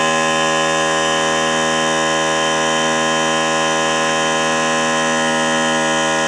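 Salvaged portable mini air compressor running steadily, its electric motor and pump filling the tank with air and building pressure: a constant, even buzzing hum.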